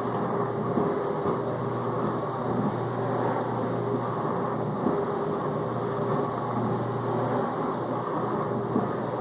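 Whirlpool dishwasher in the main-wash circulation phase: the circulation pump runs with a steady low hum while wash water rushes and sprays inside the tub.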